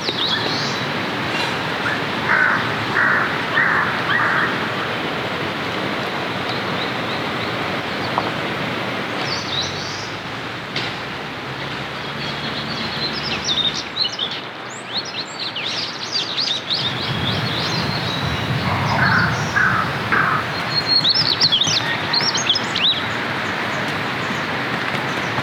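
Steady rain falling, with birds chirping over it in several short bouts and a few lower pulsed calls near the start and again about three quarters of the way through.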